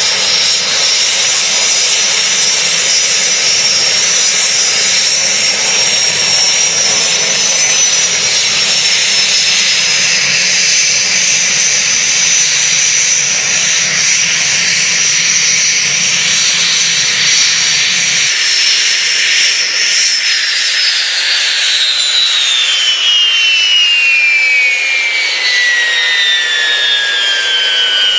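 Helicopter turbine engine whining steadily over a broad rush of noise. About two-thirds of the way through, the low rumble drops away and the whine starts falling steadily in pitch as the turbine winds down.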